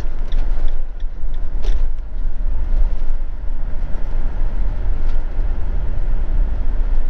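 Motorhome engine and road rumble heard from inside the cab, with a few light rattles.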